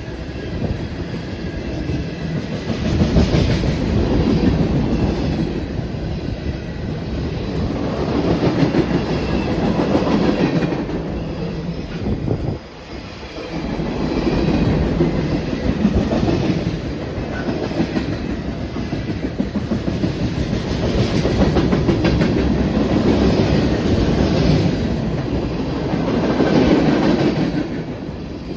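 Railroad cars rolling past with a continuous clatter of wheels over the rails, swelling and easing every couple of seconds, with a brief dip just under halfway through.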